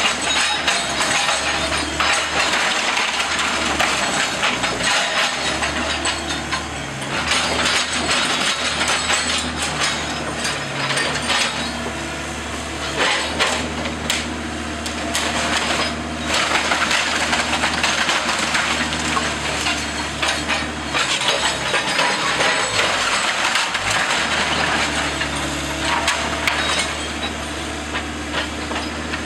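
Wooden debris from a demolished house cracking, splintering and crunching as it is broken into smaller pieces, over the steady drone of a heavy machine's engine.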